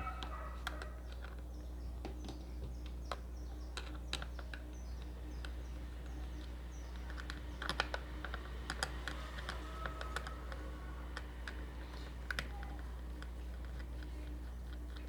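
Faint, scattered clicks and scrapes of a screwdriver working out the small screws that hold the power cord in a steam iron, busier about halfway through, over a steady low hum.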